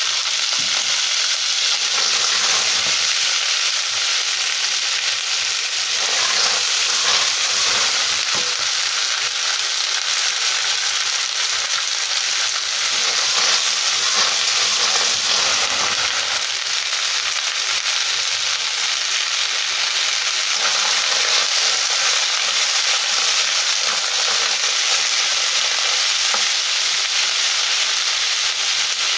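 Snails in their shells sizzling in hot oil as they stir-fry in a wok with lemongrass and chilli, a steady hiss throughout. The shells are stirred and tossed about midway through.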